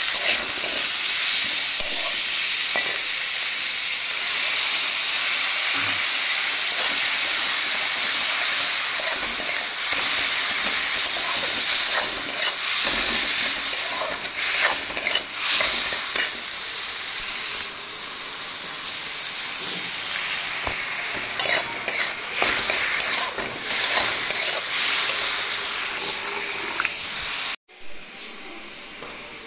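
Onion, green chillies and freshly added tomatoes sizzling in hot oil in a kadai, with a metal spatula stirring and scraping the pan. The frying sound cuts off suddenly near the end.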